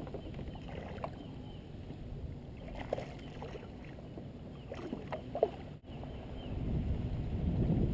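Kayak on the water: a steady low rumble of water and wind on the microphone, with a few light knocks. The rumble grows louder near the end.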